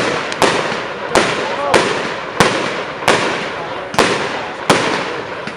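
Firework display: a rapid run of about eight sharp firework bangs, one every two-thirds of a second or so. Each bang is followed by a fading crackling hiss.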